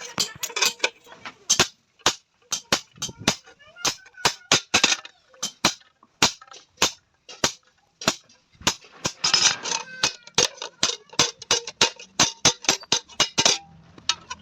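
Blacksmith's hand hammer beating an iron tawa blank, sharp metal strikes in a fast, irregular run of several blows a second.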